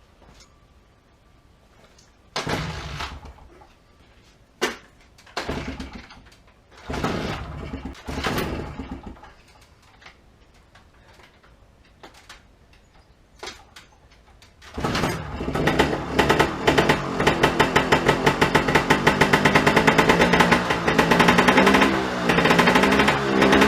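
Vintage Beta Synt trials bike's two-stroke engine being started: several short separate attempts, then about fifteen seconds in it catches and runs with a fast, even popping, its pitch rising and falling near the end.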